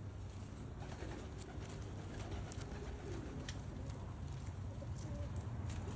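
Domestic pigeons cooing softly, over a steady low rumble.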